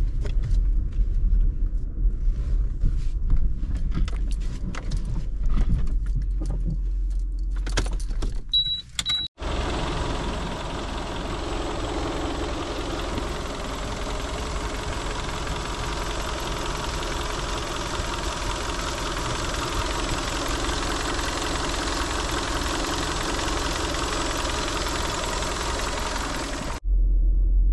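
Inside a Skoda Octavia II rolling slowly, a low cabin rumble with scattered clicks. About nine seconds in this cuts to the car's 1.6 MPI four-cylinder petrol engine idling steadily, heard from above the open engine bay, until it stops abruptly near the end.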